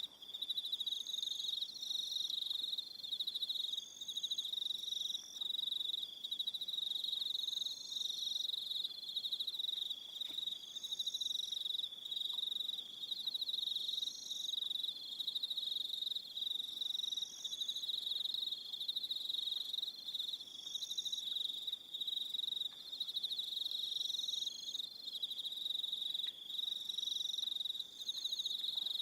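Evening chorus of crickets: a steady, dense high trill, with shorter, higher-pitched chirps breaking in every second or two.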